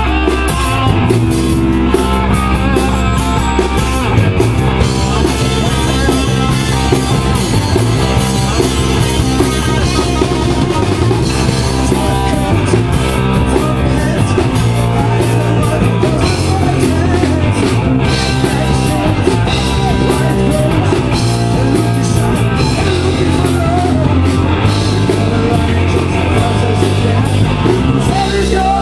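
Rock band playing loudly: drum kit, guitar and singing, with a steady beat throughout.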